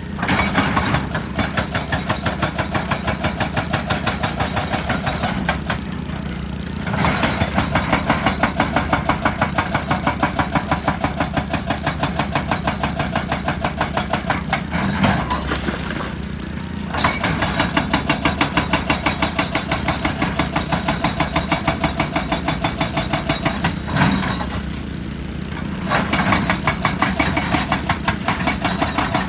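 Excavator-mounted hydraulic rock breaker hammering rock in long runs of rapid, evenly spaced blows, stopping briefly three times, about 6, 15 and 24 seconds in. The excavator's diesel engine runs steadily underneath.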